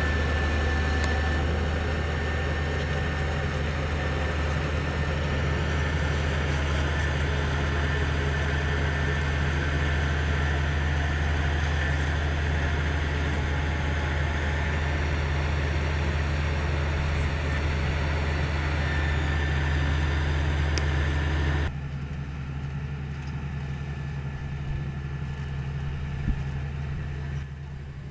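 Komatsu GD555 motor grader's diesel engine running steadily under load, a deep hum with a thin high whine on top. About three-quarters through, the sound drops suddenly to a quieter engine rumble, and drops once more near the end.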